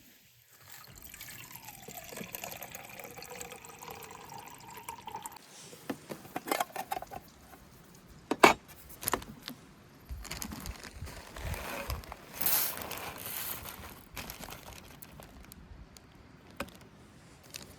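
Liquid being poured into a container for about four seconds, followed by a few sharp clicks and knocks, the loudest about eight seconds in, and some rustling handling noise.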